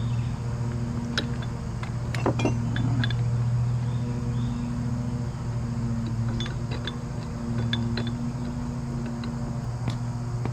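A steady low mechanical hum runs throughout, with scattered light metallic clinks of steel tools and winch parts being handled, a cluster about two seconds in and more past the middle.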